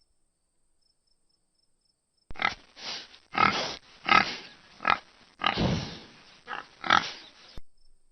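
Domestic pig grunting, a run of about eight short grunts that starts about two seconds in and cuts off suddenly near the end.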